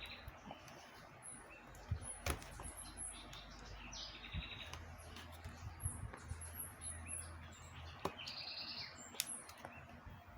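Birds chirping in short bursts of quick repeated high notes, with a few sharp clicks.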